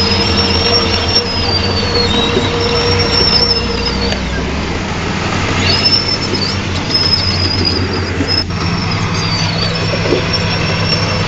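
Diesel engine of a tracked earthmoving machine running steadily, with the steel crawler tracks squealing in high, wavering tones that rise and fall.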